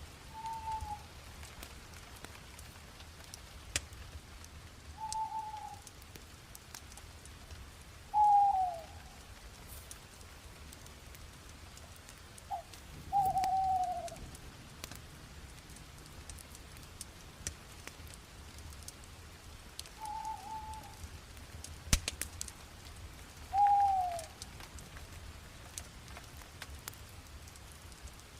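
A bonfire crackling, with scattered small pops and one sharp pop about two-thirds of the way through. Over it a bird gives a short, slightly falling call note six times, several seconds apart.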